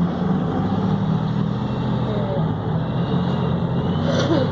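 Volvo B7RLE city bus engine running steadily, with road noise. A brief higher-pitched sound comes in near the end.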